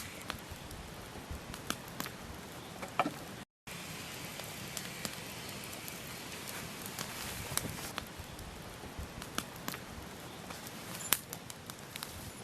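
Wood campfire burning: a steady hiss with frequent, irregular sharp crackles and pops from the burning logs, one pop near the end louder than the rest. The sound cuts out completely for a split second about three and a half seconds in.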